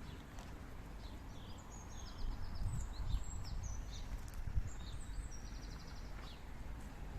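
Small birds calling outdoors: several short high chirps and a couple of fast trills. Under them runs a steady low outdoor rumble, with a few louder low thumps in the middle.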